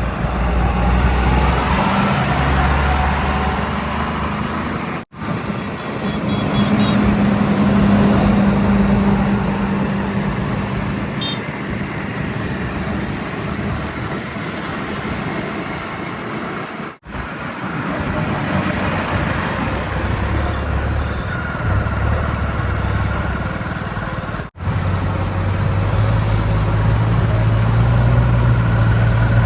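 Heavy diesel engines running steadily, the kind heard from a backhoe loader, tractors and tipper trucks at work. The audio drops out briefly three times, about 5, 17 and 24 seconds in.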